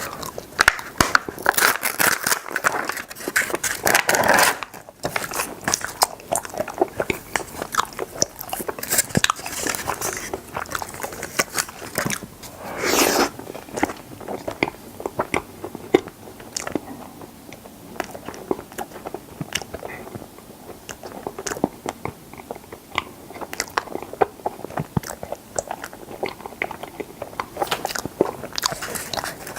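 Close-miked eating sounds of biting and chewing strawberry mochi ice cream: a dense run of sharp wet clicks and smacks, with louder bites about 2, 4 and 13 seconds in.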